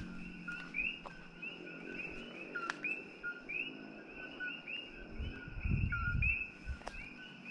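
A chorus of coqui frogs calling at night, many overlapping two-note 'co-qui' chirps, each a short low note stepping up to a higher one, which the man takes for birds calling one after another. A low rumble of handling noise comes about five seconds in.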